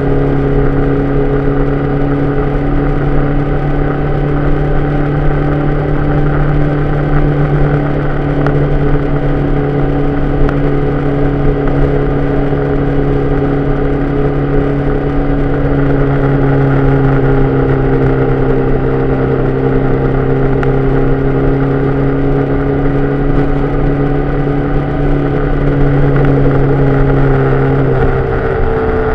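Vehicle engine running at a steady pitch while driving, picked up by a camera on the outside mirror arm. Near the end the note drops and changes, as at a gear change.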